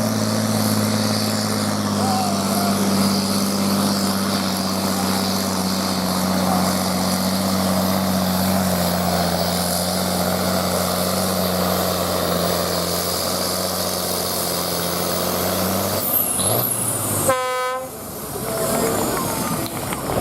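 Diesel pulling-tractor engine running steadily under load, a loud, even drone that sags a little in pitch partway through and breaks off about four seconds before the end.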